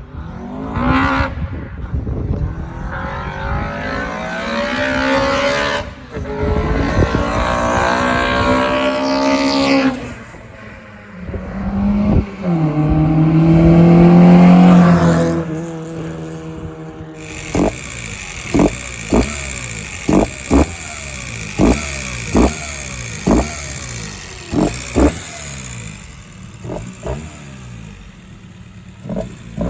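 Car engine revving hard: the pitch climbs and breaks twice, like gear changes under acceleration, and the loudest stretch comes a little before the middle. In the second half come about a dozen short, sharp throttle blips in quick succession.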